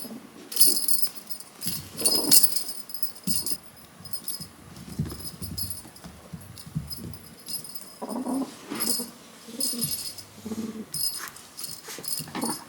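Cats mewing in short calls, over a small bell jingling in repeated short shakes.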